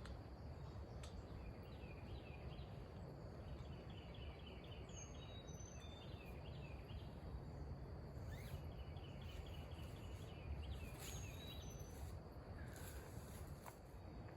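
Songbirds chirping, with short runs of quick repeated notes and a few high falling calls, faint over a steady low rumble.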